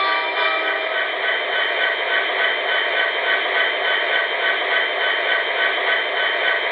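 HO-scale MTH SD70ACe model's DCS sound system playing the sound of a diesel locomotive engine running steadily through its small onboard speaker, with no deep bass. A horn note tails off about half a second in.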